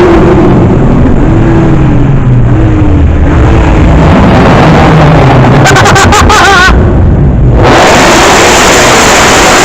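Car engines running and revving loudly, their pitch rising and falling. A brief warbling high tone sounds a little past halfway, and a loud rushing noise takes over near the end.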